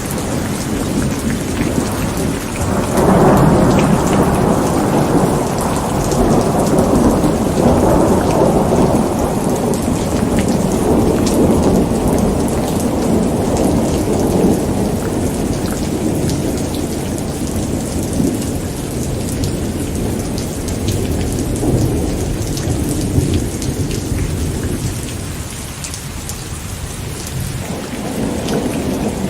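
Steady heavy rain hissing and pattering, with a long roll of thunder that swells about three seconds in and slowly rumbles away over some twenty seconds. A fresh rumble builds again near the end.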